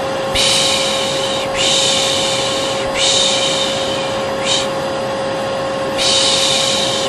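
Vacuum cleaner motor running steadily with a constant hum, while a person shushes over it: long 'shh' sounds repeated about every second and a half, one cut short about halfway through.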